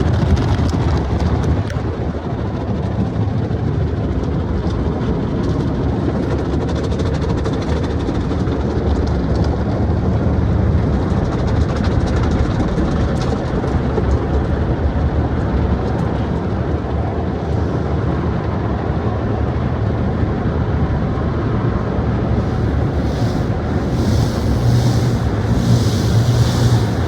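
Automatic car wash machinery running, heard from inside the car: a steady low rumble, with a few short bursts of hiss near the end.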